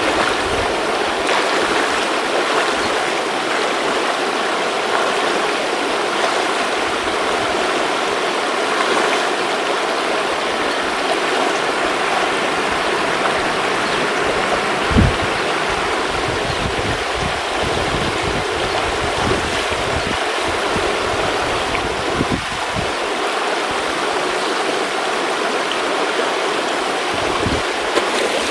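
River water rushing and splashing steadily, with a brief low knock about halfway through.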